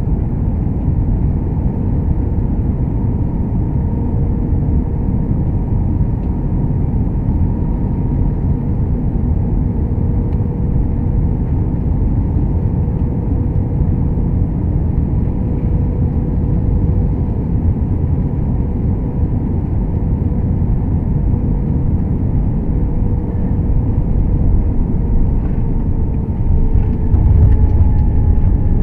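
Airbus A321-200 cabin noise heard from inside: a steady deep rumble of jet engines and airflow with a faint steady hum above it, growing somewhat louder near the end.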